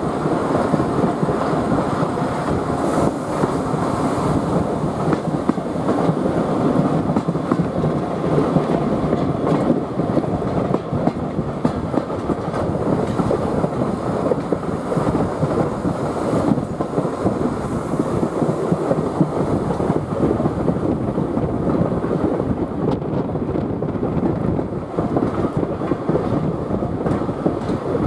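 Steam-hauled heritage train running along the line: a steady rumble and clatter of the carriages' wheels on the track.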